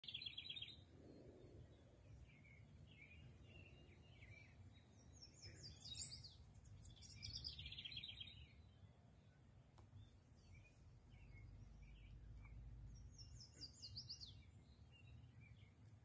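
Faint songbirds singing: short rapid trilled phrases every few seconds with scattered chirps between, over a low steady rumble.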